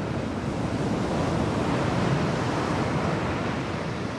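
Sea waves and wind: a steady rushing of open water.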